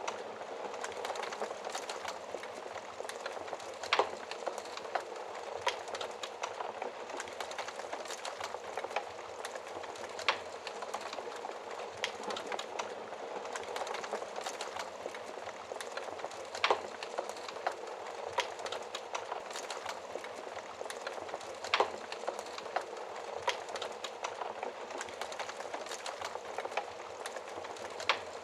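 Wood fire crackling steadily in a fireplace: a dense patter of small crackles, with a louder sharp pop every five or six seconds.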